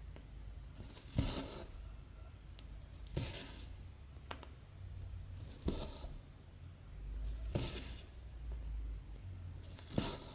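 Cross-stitching by hand: a needle punching through 14-count fabric and cotton thread drawn through with a sharp swish. This happens five times, about every two seconds.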